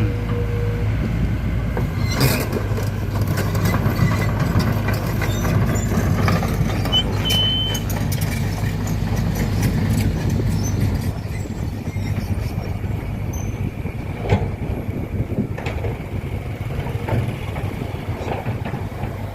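A large engine running steadily, as of heavy machinery or a truck, with scattered knocks and clanks. It eases off a little about halfway through.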